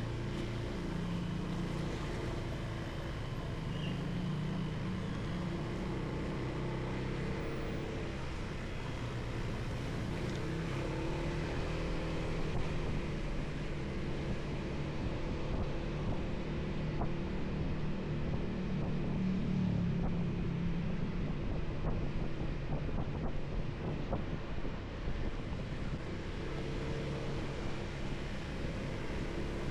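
Motorcycle engine running while riding, its pitch rising and falling with the throttle, under steady wind noise on the helmet microphone.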